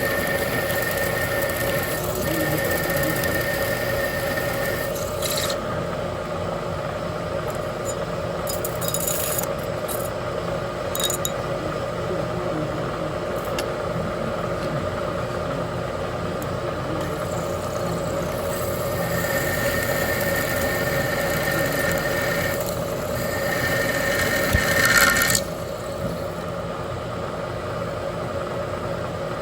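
3/8 inch twist drill cutting a cross hole through a metal control rod on a running machine tool: a steady spindle hum with scraping from the cut and a high squealing tone that comes and goes, loudest about 25 seconds in.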